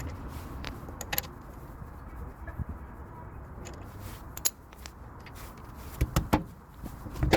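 Scattered clicks and knocks of tools and parts being handled during car repair work, with a cluster of sharper knocks about six seconds in and a louder one near the end, over a low steady rumble.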